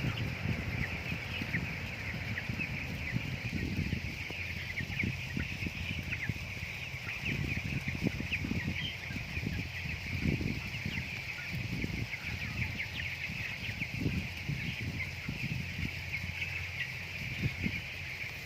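A flock of broiler chickens peeping continuously, many short high calls overlapping, with irregular dull knocks underneath.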